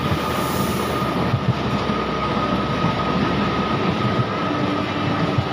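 Train running on the rails, heard from the side of the moving locomotive: a steady, dense running rumble with a thin steady whine above it. A second, lower steady tone joins about two-thirds of the way in.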